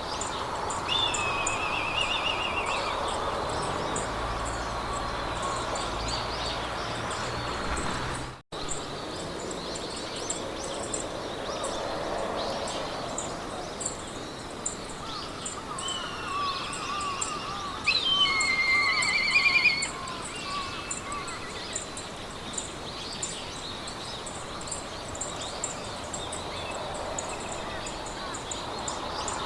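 Meadow ambience: birds singing short trilled phrases near the start and again at about two-thirds of the way through. These sit over a regular high-pitched chirping, a few chirps a second, and a soft steady hiss of wind through grass. The sound drops out briefly about a third of the way in.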